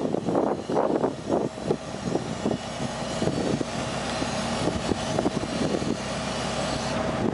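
LP-powered Chrysler engine of a Towmotor yard-type fork truck running, with a steady hum and irregular knocks over it.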